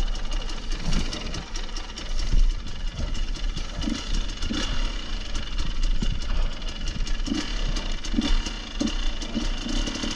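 Off-road motorcycle engine running at low revs with uneven throttle, along with frequent short clicks and knocks.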